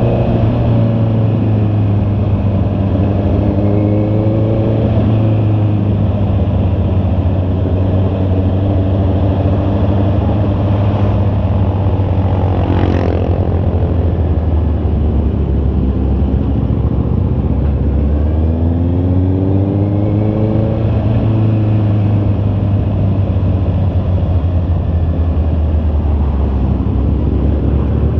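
Honda CB650R's inline-four engine running while riding, its pitch rising several times as the bike accelerates through the revs.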